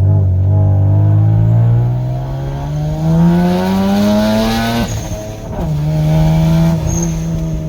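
Turbocharged 2.7 L V6 of a 2005 Hyundai Tiburon revving, its pitch climbing steadily for about five seconds with rising hiss. The pitch then drops suddenly, a brief high whistle sounds twice, and the engine settles at a steady lower speed.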